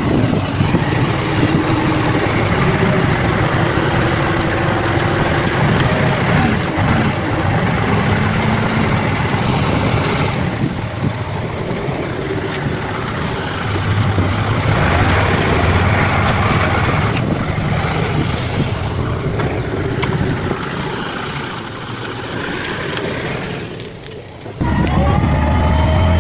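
Bulldozer's diesel engine running under changing load, rising and falling in pitch. Near the end the sound jumps abruptly to a louder, steadier run.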